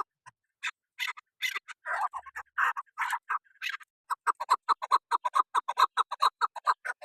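A bird calling: a few loud, rough calls in the first half, then a fast, even run of short clipped notes, about six a second.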